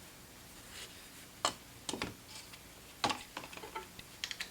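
Scattered sharp metallic clicks and taps of steel shears being handled and set against a flat hone: two single clicks, then quicker runs of small clicks in the second half.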